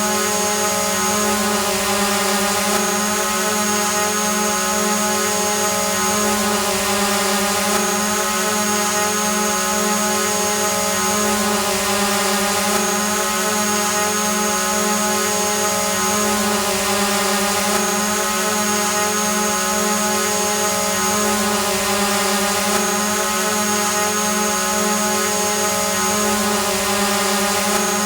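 Drone hovering: the steady buzzing hum of its propellers, with a high whine that comes and goes every few seconds.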